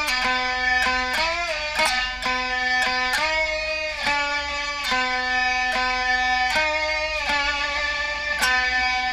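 Diddley bow, a single-string instrument, plucked about once a second, with its notes sliding up and down in pitch between plucks.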